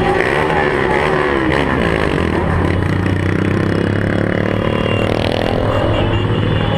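Several motorcycle engines running at once, revving up and down in overlapping pitches, with one climbing steadily in pitch as it accelerates in the second half.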